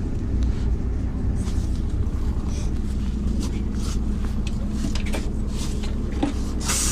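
Interior of a MAZ-103 city bus on the move: steady low engine and road rumble, with scattered light rattles from the body and fittings. Just before the end a loud hiss of compressed air starts suddenly.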